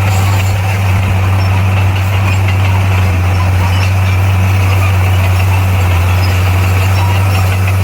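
Komatsu bulldozer's diesel engine running steadily, a constant deep drone with no change in speed.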